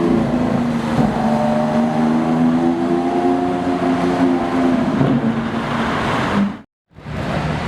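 Lamborghini Aventador V12 engine running at low, fairly steady revs, rising slightly and then easing off; the sound drops out briefly near the end.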